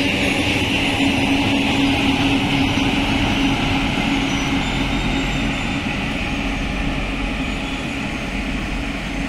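Amrit Bharat Express passenger train running past at speed, its wheels rumbling steadily on the rails as the rear WAP-5 electric locomotive goes by. A steady hum fades out about six seconds in, and the overall sound eases slightly as the train draws away.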